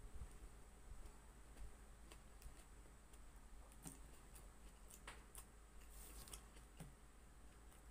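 Faint chewing of fried lumpia (spring rolls) eaten by hand: a few soft crunches and mouth clicks, mostly in the second half, over a low steady hum.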